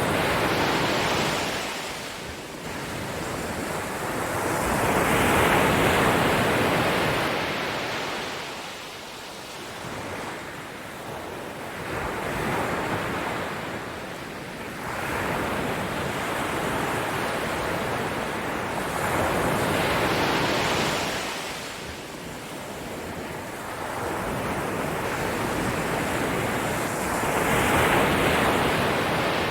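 Ocean surf: waves washing in and drawing back, swelling and fading every few seconds.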